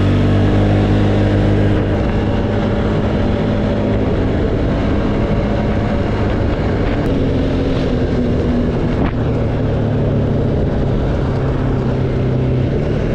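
ATV engine running under way, a steady engine note whose pitch shifts a little as the throttle changes.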